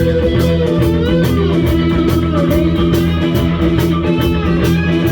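Live rockabilly band playing an instrumental stretch: electric guitar lines over bass, with a steady drum beat.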